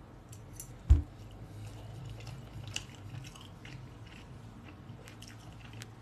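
A person chewing a mouthful of soft cauliflower, egg and ham close to the microphone: faint wet clicks and smacks, with one sharp thump about a second in.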